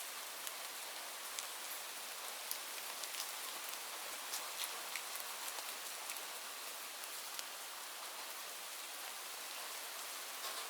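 Steady rainfall with scattered individual drops ticking sharply.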